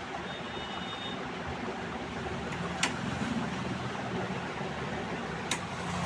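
Steady background noise with a low hum, broken by two sharp clicks, about three seconds in and again near the end.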